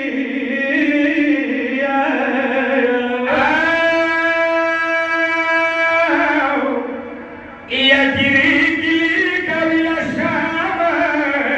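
Male reciter chanting a noha, a Shia lament, in a drawn-out melodic voice. He holds one long note about three seconds in, drops off briefly a little past halfway, then sings on.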